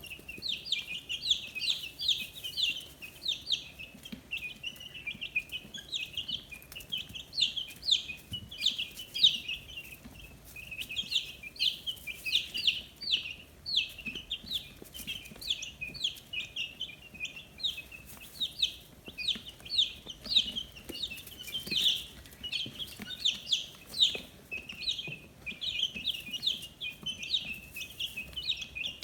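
A brood of 15-day-old chicks peeping without pause: many short, high, downward-sliding peeps overlapping, several a second.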